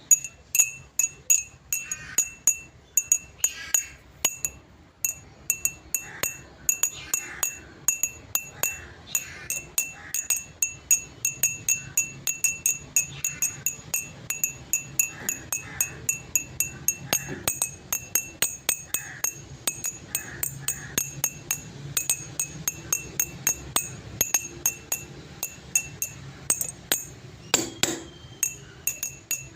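Rapid, evenly repeated glassy clinks, about three a second, each with a short high ring.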